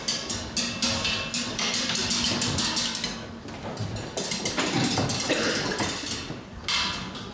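Live stage percussion between scenes: rapid, irregular knocking and clattering, with a steady low tone through the first three seconds.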